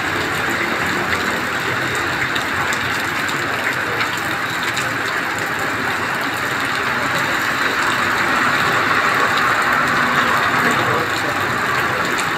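Heavy rain falling on a wet asphalt road, a steady hiss, with the tyres of passing vehicles swishing through the water on the road. The noise grows louder from about eight seconds in as a bus drives past close by.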